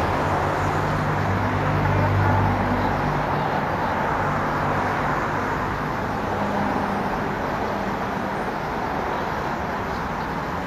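Steady road traffic noise, with a vehicle engine's low hum strongest in the first half and fading after.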